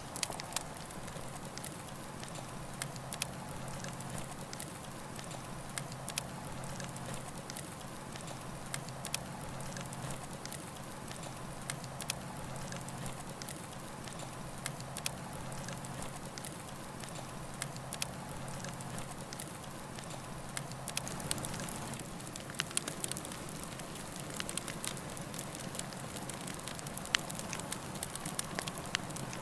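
Campfire burning, a steady hiss with frequent sharp, irregular crackles and pops.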